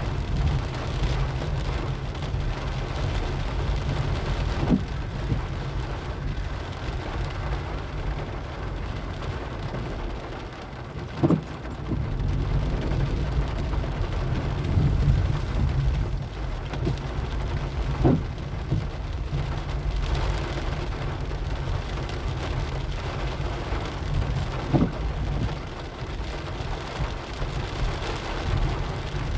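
Rain falling on a moving car, over a steady low rumble of engine and road. A short knock comes about every six to seven seconds, four times.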